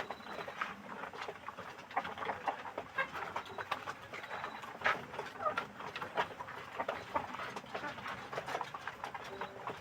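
A flock of kampung chickens clucking and calling, many short calls overlapping.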